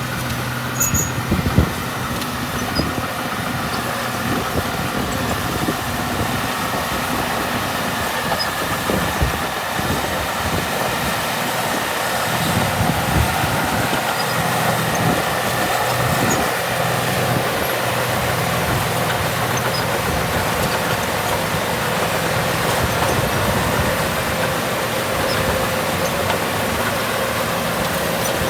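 Diesel engine of a small Komatsu D31P bulldozer running steadily under work, with a few low knocks.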